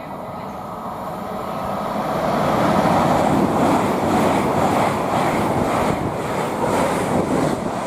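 Hitachi-built LNER Azuma high-speed train passing at speed: a rushing noise of wheels and air that swells over the first three seconds and then stays loud.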